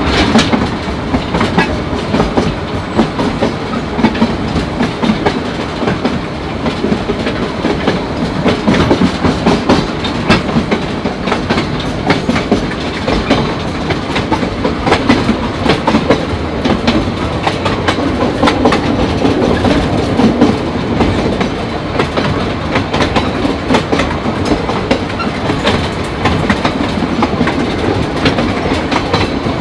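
Steam train of Northern Central Railway 4-4-0 No. 17 'York' rolling along, heard from on board: a steady running rumble with irregular clicks of the wheels over the rail joints.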